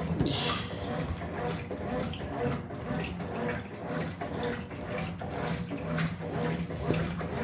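Electrolux LF75 top-loading washing machine agitating a load: water and clothes swish back and forth in repeated pulses over the steady hum of the motor.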